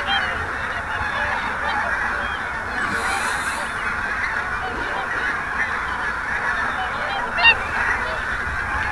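A large flock of wild geese honking continuously, many calls overlapping into a dense chorus, with one louder, nearer honk about seven and a half seconds in.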